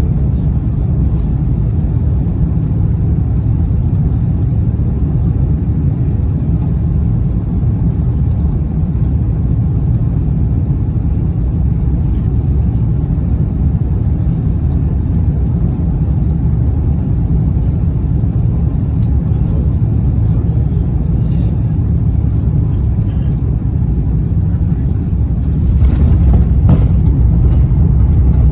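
Cabin noise of an Airbus A350-900 heard from a passenger seat: a steady low rumble of its Rolls-Royce Trent XWB engines and airflow during the landing. About 26 seconds in, it grows louder with a couple of faint knocks.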